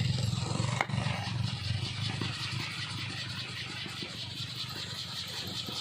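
Kolecer, a large wooden wind propeller on a tall pole, spinning in strong wind with a steady low buzzing drone, getting a little quieter after about a second.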